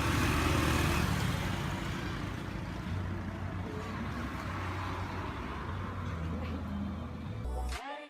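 A motor vehicle's engine running close by, with a steady low hum under a wash of road noise, loudest in the first second. Near the end it cuts off abruptly and a music track begins.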